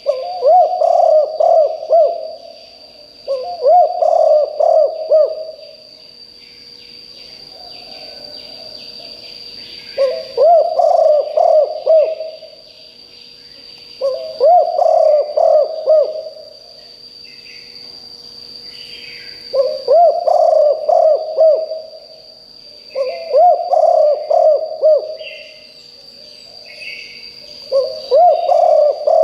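Spotted dove cooing: phrases of about two seconds, often two in close succession, repeated every few seconds. Faint chirps of other small birds and a steady high whine run behind.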